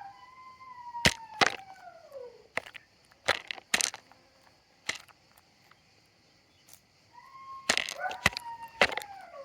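Chickens pecking at feed, irregular sharp taps, while a hen gives long calls that slide down in pitch, one at the start and another from about seven seconds in.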